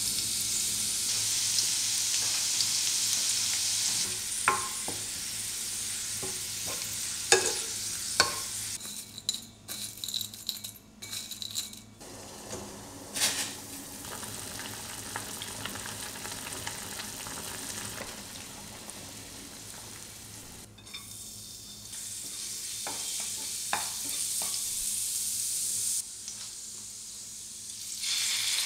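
Sliced shallots frying in oil in a ceramic frying pan: a steady sizzle, with a few sharp clicks of stirring a few seconds in. The sizzle drops to a quieter, patchier sound in the middle and comes back strongly later on.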